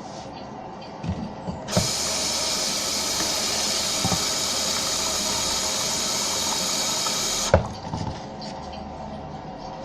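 Water hissing hard in a Kohler Wellworth toilet tank. It comes on about two seconds in after a few knocks, runs evenly for about six seconds, then cuts off with a sharp click, leaving a quieter steady trickle.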